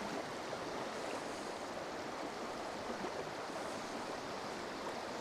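Trout stream flowing, a steady rush of moving water with no let-up.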